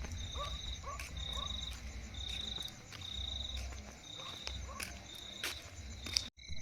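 Night-time crickets chirping in short trilled pulses, about two a second, with a few short frog calls and a low rumble underneath. The sound cuts off abruptly near the end.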